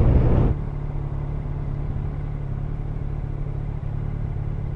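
Yamaha FZ1N motorcycle's inline-four engine with road and wind noise, loud for about half a second and then dropping suddenly to the engine running steadily with a low, even hum.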